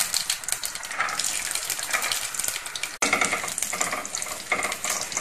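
Cashews sizzling and crackling as they fry in hot ghee in a kadhai.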